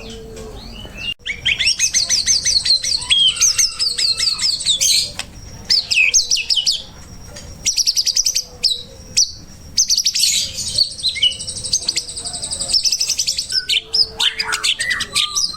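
Songbird song from a masteran bird-training recording: fast, high trills and chattering phrases, each running a few seconds with short breaks between.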